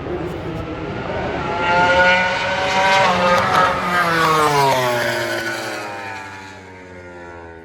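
A MotoGP racing motorcycle's four-cylinder engine at high revs, passing by at speed: it grows louder and rises in pitch up to about 2 to 3 seconds in, then falls in pitch and fades away.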